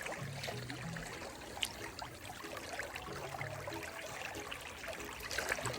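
Shallow river water trickling and running, with small scattered ticks, while a trout is held in the current for release.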